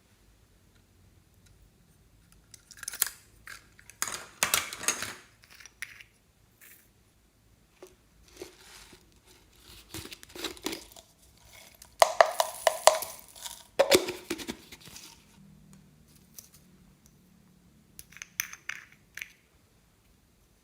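Slime being squeezed and worked by hand, crackling and popping in several separate bursts, the loudest about twelve to fifteen seconds in.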